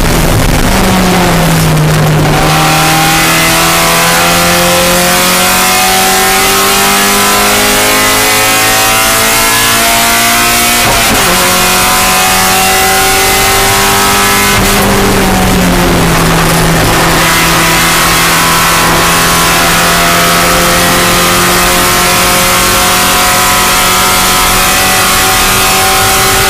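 Spec Miata race car's four-cylinder engine under hard acceleration, its note climbing slowly through long pulls. The pitch drops on gear changes about a second in and again a little past halfway.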